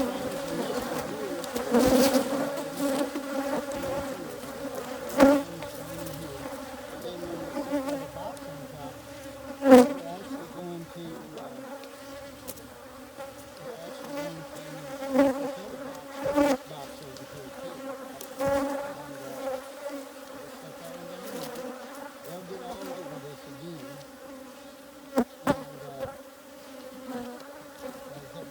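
A colony of Africanized hybrid honeybees buzzing around an opened hive: a steady, dense hum. Several sharp knocks cut through it, the loudest about ten seconds in and a quick pair near the end.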